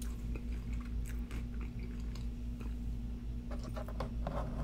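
Close-miked chewing of McDonald's french fries, a run of small scattered mouth clicks and soft crunches, over a steady low hum.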